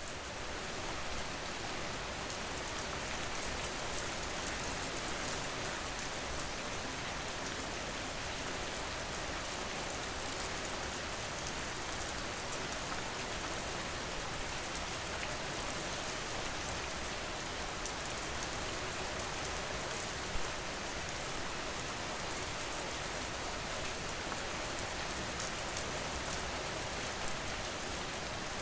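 Steady rain falling: an even, dense hiss with many fine ticks of individual drops, unchanging throughout.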